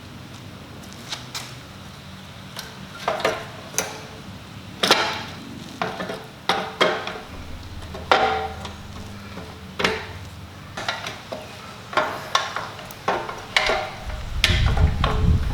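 Irregular metallic clinks and knocks of hand tools and bolts, roughly one a second, some of them ringing briefly, as the engine is worked loose from a Kawasaki KX500 dirt bike frame. A heavier, lower thud comes near the end.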